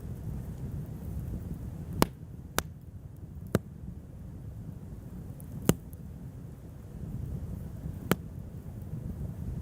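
Wood fire burning, with five sharp crackling pops at irregular intervals over a low steady rumble.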